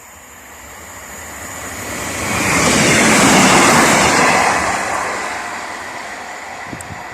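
A train passing at speed: a rushing noise that builds, is loudest about three to four seconds in, then dies away.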